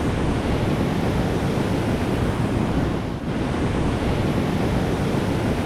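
Steady wind rushing and buffeting on the camera microphone, heavy and fluttering in the low end.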